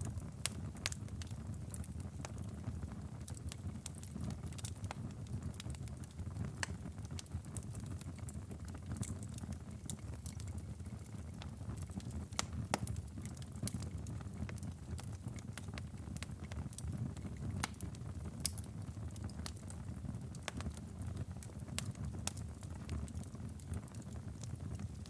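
Wood fire crackling and popping, with irregular sharp snaps scattered throughout over a steady low rumble.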